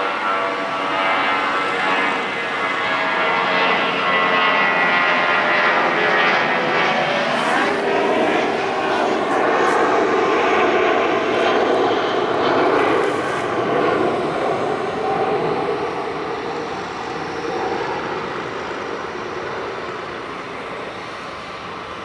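Twin-engine jet airliner taking off and passing by, its turbofan whine and roar building. The engine tones drop in pitch as it goes past, about seven seconds in, and the roar fades away over the last several seconds.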